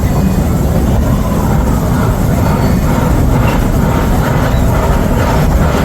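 Narrow-gauge train behind a 4-4-0 steam locomotive running along the track, a loud steady rumble of the cars rolling.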